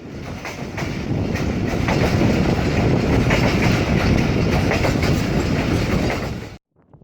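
Pakistan Railways train running on the track, wheels clattering over the rail joints with a steady rumble. The sound cuts off suddenly near the end.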